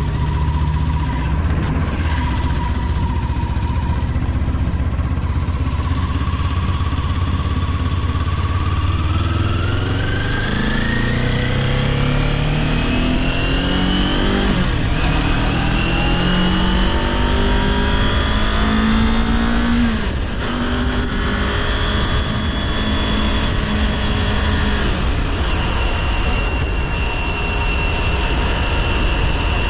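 Kawasaki Ninja 400's parallel-twin engine, first holding a steady note. About nine seconds in it begins rising in pitch as the bike accelerates, with a gear change midway and another near twenty seconds in, then settles to a steadier note. Wind rush runs throughout.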